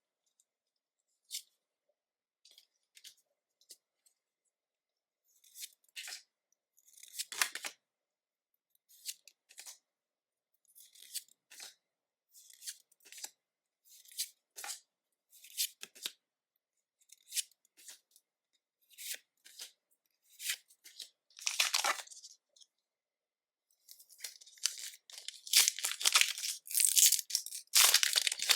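Foil Pokémon booster packs and trading cards being handled and torn open. Short, scattered rustles come first, then a dense run of crinkling and tearing near the end.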